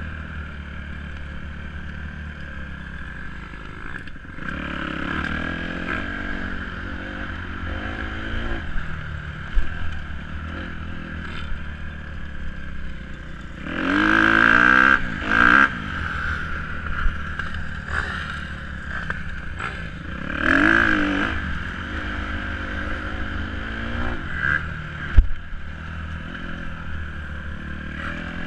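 Dirt bike engine running, revved up and back down several times, with the longest and loudest revs about halfway through and about two-thirds through. There is a sharp click near the end.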